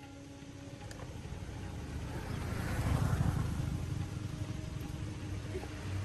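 A low engine rumble that builds over the first few seconds and then eases off a little.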